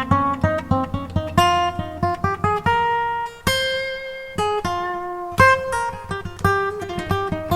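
Acoustic guitar music: a run of plucked single notes and chords.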